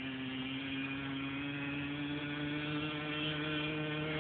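Mini dirt bike's small engine running steadily, its pitch creeping slowly upward as it gathers speed.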